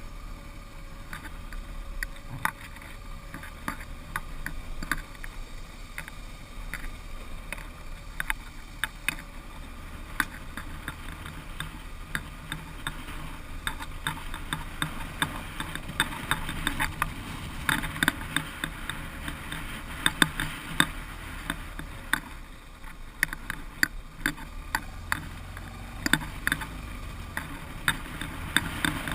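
Motorcycle riding on an unpaved road: a low, steady engine hum under frequent sharp clicks and rattles over the rough surface.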